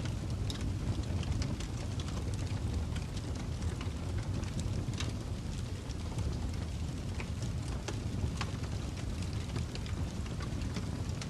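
Wood fire crackling in a fireplace: a steady low rumble of the flames with scattered sharp pops and crackles.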